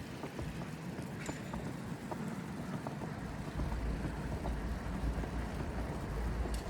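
Snowy city street ambience: a steady low rumble that grows stronger about halfway through, with faint scattered ticks of footsteps in snow.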